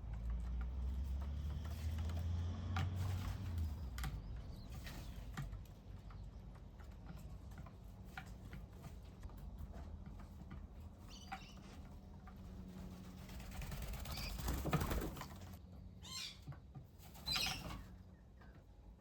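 Small birds at a bird bath: scattered pecks and wing flutters, with a louder flurry about fifteen seconds in and two shorter bursts just after. A low rumble underneath fades out about six seconds in.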